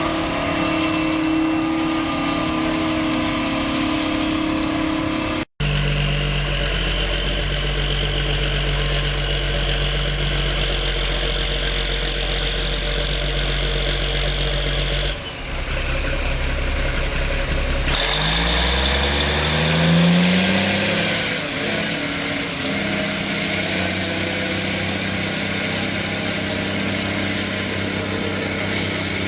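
Tractor engines running steadily across several clips joined by abrupt cuts, one about five and a half seconds in and another about fifteen seconds in. Around twenty seconds in, an engine revs up and back down.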